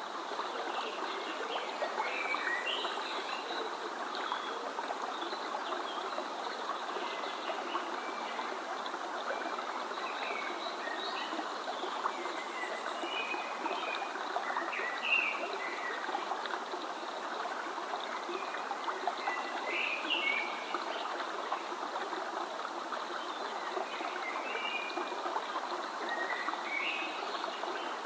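A stream of water running steadily, with small birds chirping at intervals over it.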